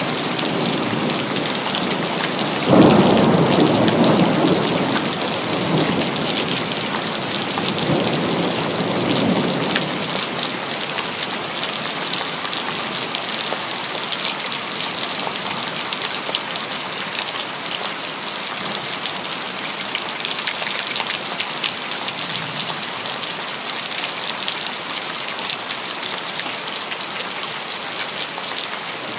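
Steady rain falling on hard surfaces, with a clap of thunder about three seconds in that rumbles on for several seconds before dying away under the rain.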